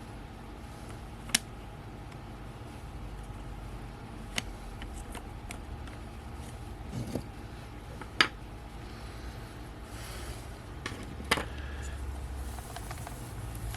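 Scattered sharp clicks and taps of small tools and lens parts being handled during the teardown of a camera lens, four of them louder and a few seconds apart, over a steady low rumble.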